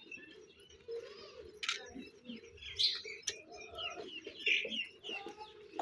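Birds chirping around, a string of short high calls one after another, with a couple of sharp clicks in between.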